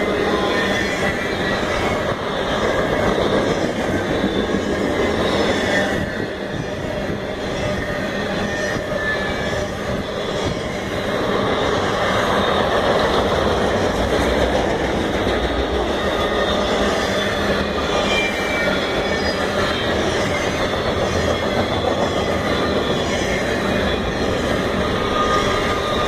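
CSX freight train of trailer-carrying flatcars rolling past close by: a steady noise of steel wheels on rail, with faint high wheel squeals now and then.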